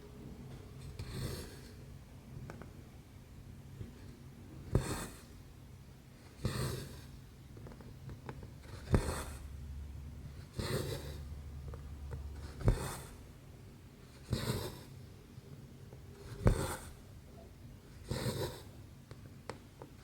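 Needle and embroidery floss pulled through cross-stitch canvas: a short rasping pull about every two seconds, several of them starting with a sharp tick as the needle pierces the fabric.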